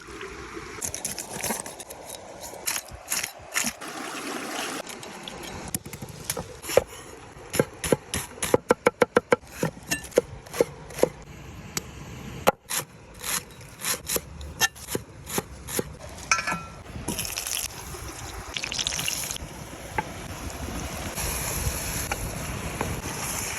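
Outdoor food-preparation sounds: sharp knocks and taps, with a fast, even run of about a dozen knocks around the middle, over a watery, splashing noise.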